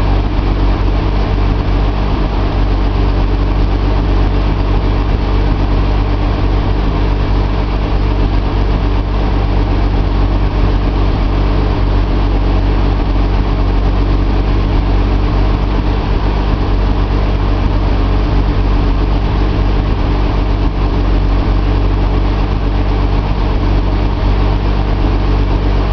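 Nissan L28 2.8-litre straight-six with a Maxima cylinder head, running steadily at an even speed with no revving.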